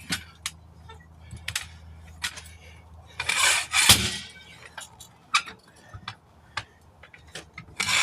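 Scattered metal clicks and taps of tire irons working against the wheel rim as a stiff tire bead is levered down below the rim lip by hand, with a longer, louder scraping rush about three seconds in.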